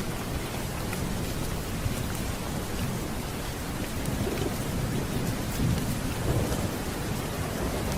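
Steady heavy rain with a low rolling thunder rumble that swells about halfway through and fades near the end.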